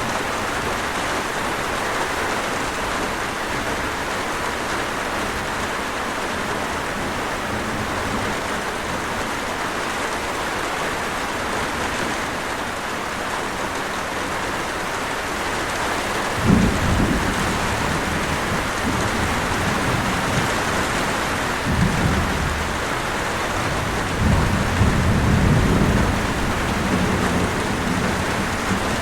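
Steady rain falling, with low rumbles of thunder: a sudden one a little past halfway, another a few seconds later, and a longer roll near the end.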